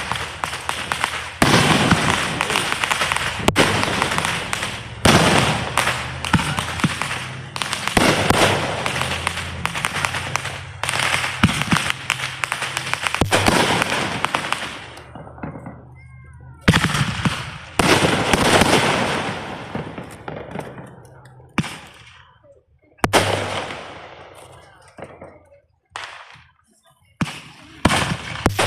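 Consumer fireworks going off in quick succession: sharp bangs about once a second, each fading away, with a few short lulls in the second half.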